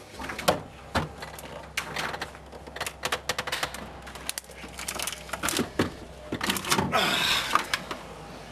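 Rapid, irregular knocks, clicks and cracks of a custom fibreglass subwoofer enclosure being broken apart and pried out of a car, with a brief scraping rasp near the end.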